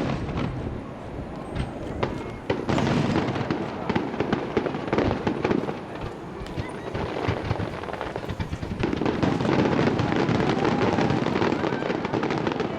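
Starmine firework display: aerial shells bursting in rapid succession with dense crackling throughout. The barrage swells twice, about two and a half seconds in and again about nine seconds in.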